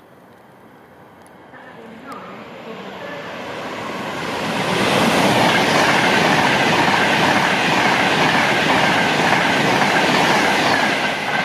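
Virgin Trains Class 390 Pendolino electric express passing a platform at speed. The rush of wheels on rail builds over the first few seconds, stays loud through the middle, and starts to fall away near the end.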